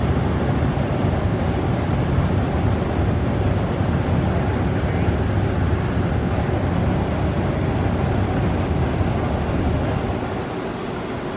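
Police motorcycle engines running in a steady low rumble, easing off somewhat near the end.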